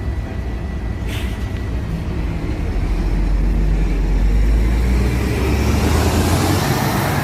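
Interior sound of a LiAZ 5292.65 city bus on the move: a steady low engine drone and road noise that swell noticeably from about halfway through. A single short click sounds about a second in.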